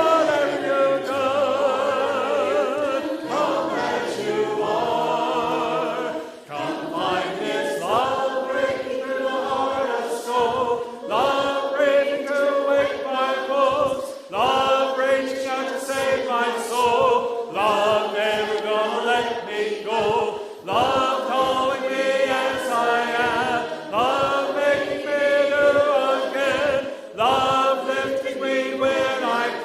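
Voices singing together in a worship song, held notes with vibrato, in phrases that restart every couple of seconds.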